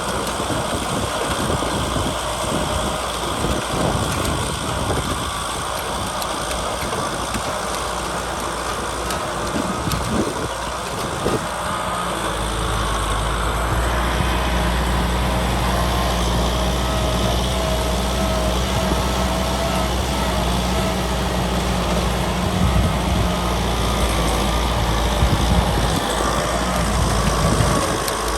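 A Kubota tractor's diesel engine running steadily. About twelve seconds in, its low note becomes heavier and more even, with a faint steady whine throughout.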